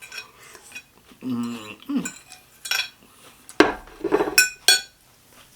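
Cutlery clinking against dishes, with about four sharp, ringing clinks in the second half.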